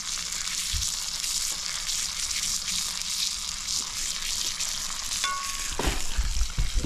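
Green beans frying in grease in a small cast-iron pot on a gas camp stove, a steady sizzle, stirred with a plastic spoon at first. A few low knocks near the end.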